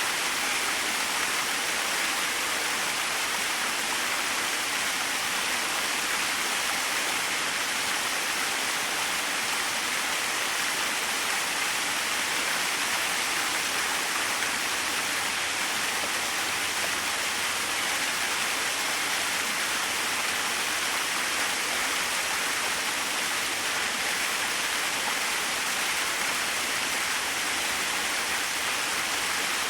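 Small waterfall: water falling and splashing steadily, an even rushing hiss with no change.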